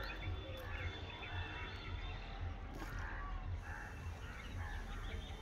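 Birds calling repeatedly in short arching calls, over a low rumble.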